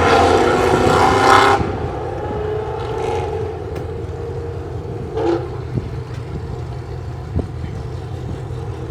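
A car engine running close by, rising slightly in pitch and then cutting off about a second and a half in, leaving a steady low rumble of engines.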